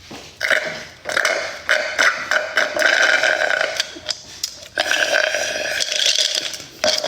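A person belching loudly in long, drawn-out burps: several run together in the first few seconds, then a second long one near the end.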